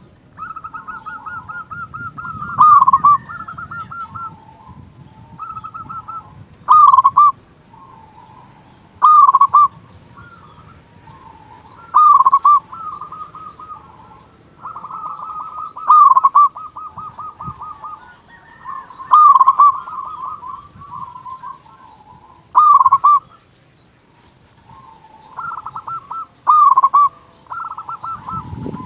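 Local-strain zebra dove (perkutut) singing with a big voice: repeated rapid cooing phrases of quick notes, with a louder burst of notes about every three to four seconds. This is the full song of a bird in singing form (gacor).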